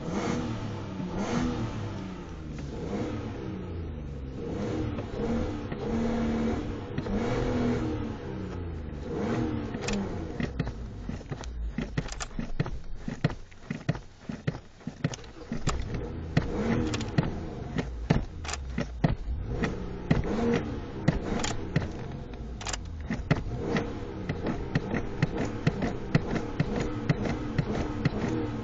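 Ford Explorer engine revved over and over in park by pumping the gas pedal, its pitch rising and falling with each blip, held back by the rev limiter at about 4500 RPM. From about a third of the way in, a rapid run of sharp clicks or knocks joins the engine sound.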